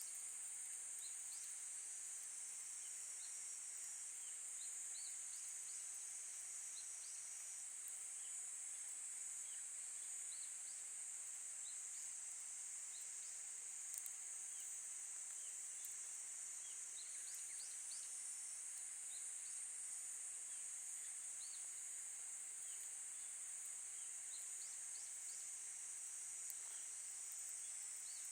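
Steady high-pitched insect chorus, scattered with many short faint chirps and a few soft clicks, one slightly louder about halfway through.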